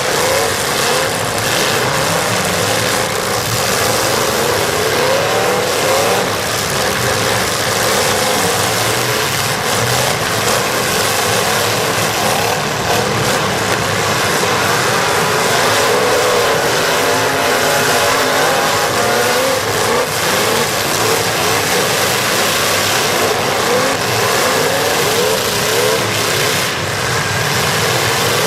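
Several demolition derby cars' engines revving at once, their pitches rising and falling over each other, with a few sharp knocks now and then.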